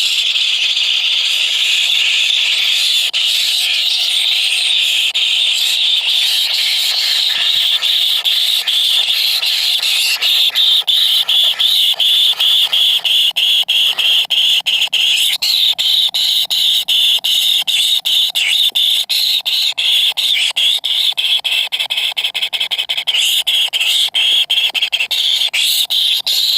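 Kingfisher nestlings begging: a loud, continuous high-pitched shrill squeal that turns choppier, with rapid pulses, from about ten seconds in.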